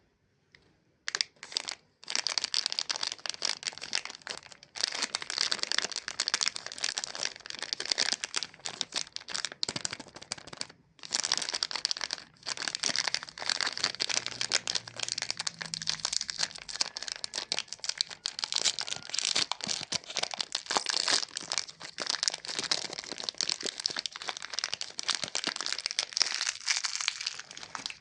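Close-miked crinkling and crackling of Chupa Chups lollipop plastic wrappers being handled and unwrapped. The crinkling goes on almost without a break, with short pauses near the start and about a third of the way through.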